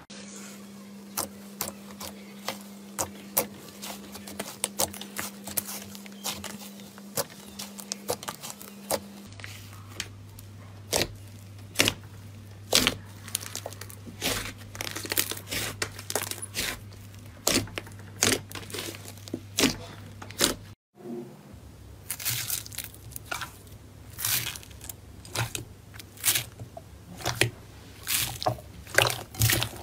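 Slime being pressed and poked by hand, giving sharp, irregular crackles and pops several times a second. A short dropout comes about twenty-one seconds in.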